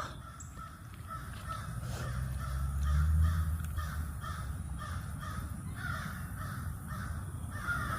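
A bird giving a steady series of short, harsh, caw-like calls, about three a second, with a louder call near the end. A low rumble swells and fades a few seconds in.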